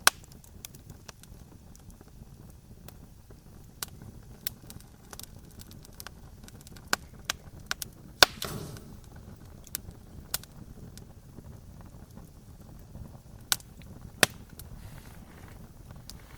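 Wood campfire crackling: irregular sharp pops and snaps over a low steady rumble of the flames, the loudest pops right at the start and about eight seconds in, the latter followed by a brief hiss.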